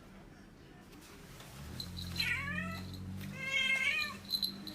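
Domestic cat meowing twice, about a second apart, over a low steady hum.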